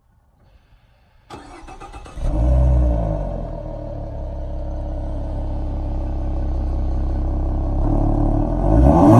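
2014 Ford Mustang with its stock exhaust starting up: the starter cranks briefly a little over a second in, the engine catches with a rev flare, then settles into a steady idle. Near the end it is revved up.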